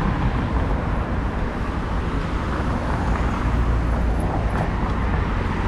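Steady outdoor ambience of a busy beachfront: an even rushing noise with a strong low rumble, like traffic and wind on the microphone.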